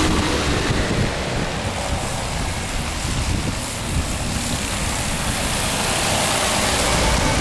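Strong storm wind gusting and buffeting the microphone in a steady rough rush with a low rumble, mixed with the hiss of traffic on wet road.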